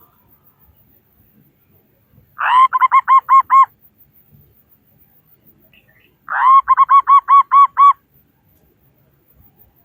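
Zebra dove (perkutut) singing: two cooing phrases, each an opening note followed by a quick run of short, evenly spaced coos, the first about two and a half seconds in and the second about six seconds in.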